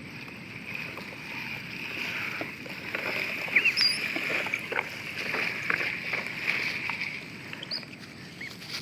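Water splashing and lapping as ducklings bathe in a small pond, with a few short, high peeps.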